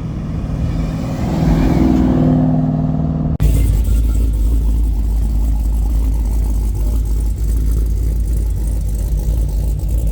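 Car engine held at raised revs, swelling in level, then an abrupt cut to a steady deep rumble.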